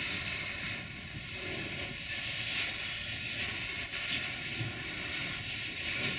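Freight train's loaded open-top wagons rolling away over the station tracks: a steady noise of steel wheels running on the rails.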